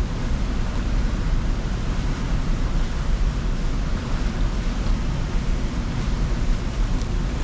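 Steady rushing outdoor noise with a heavy, unsteady low rumble.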